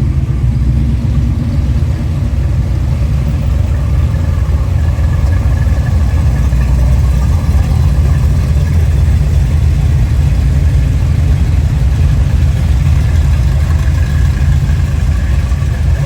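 A vehicle engine running steadily with a loud, even low rumble.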